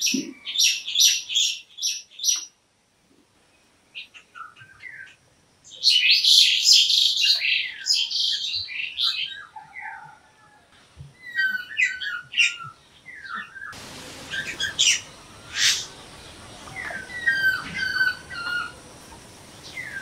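Several birds chirping and calling in irregular bursts of quick, high chirps. The background hiss rises abruptly partway through.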